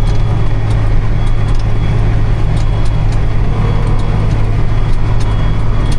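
Engine of a silage-hauling farm vehicle running steadily, a constant low hum with no change in speed.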